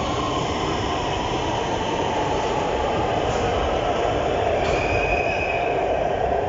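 Metro train running on rails: a steady loud rumble with a continuous whine. A brief higher-pitched squeal comes about five seconds in.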